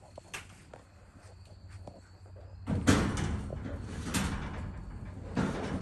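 A low steady hum with faint clicks, then, from about three seconds in, a run of loud rattling and banging knocks, like a metal door or gate being moved.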